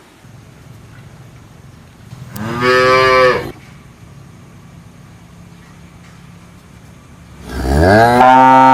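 A cow mooing twice: a short moo about two and a half seconds in, then a longer moo that rises in pitch and is held near the end.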